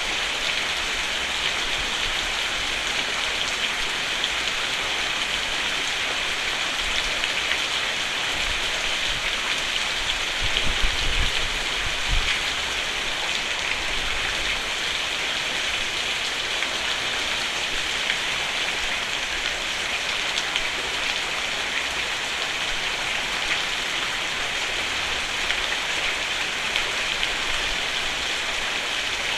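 Steady rain falling on a roof, a dense even patter. A brief low rumble comes about ten seconds in.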